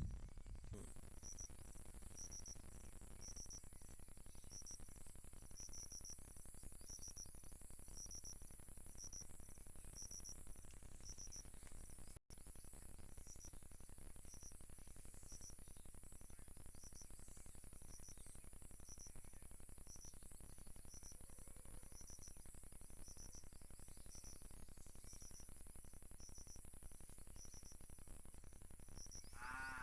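Forest insects: a steady high-pitched drone with a cricket-like chirp repeating about twice a second. The sound cuts out for an instant about twelve seconds in.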